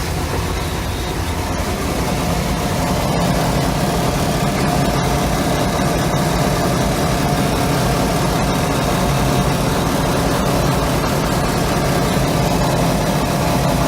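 Bayliner boat's inboard engine idling steadily out of the water, its cracked block and exhaust manifolds patched with epoxy putty.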